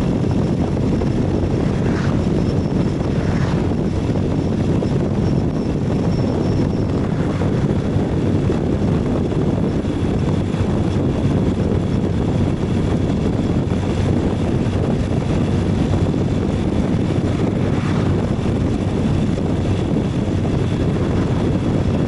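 Ural 750 motorcycle's flat-twin engine running steadily on the move, blended with a constant rush of wind and road noise.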